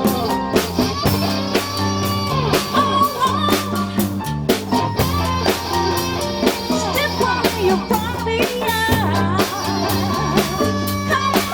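Live Latin fusion band playing an instrumental passage: a guitar lead melody over bass and drum kit.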